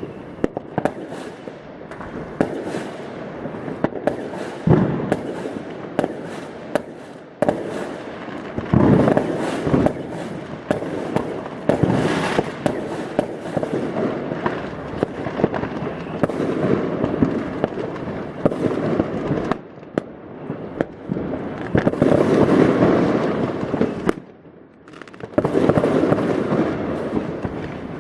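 New Year's Eve fireworks and firecrackers going off all around: a continuous dense crackle with many sharp bangs and pops, swelling louder several times and dipping briefly near the end.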